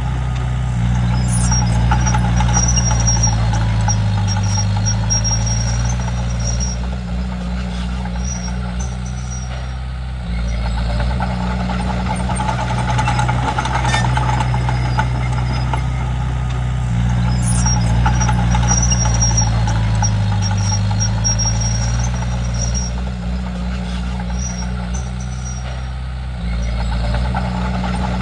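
Diesel engine of a Komatsu D31P crawler bulldozer running under working load while it pushes soil; its pitch sags twice as the blade takes load, then recovers. A faint high squeal comes and goes over the engine, and the sound drops a little and then steps back up twice.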